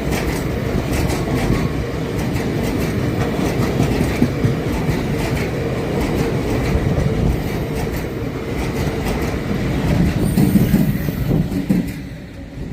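Train passing close by, a steady rumble of wheels on rails with repeated clicks as the wheels run over rail joints; the noise drops away sharply near the end as the train clears.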